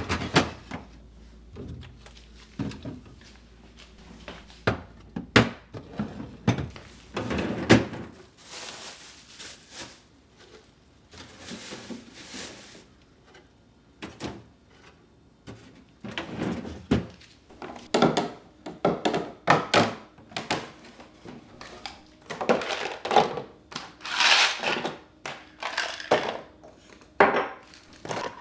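Kitchen handling sounds: a run of knocks, thunks and light clatters as things are set down and cupboard doors or drawers are opened and shut, with two short hissing bursts in the middle.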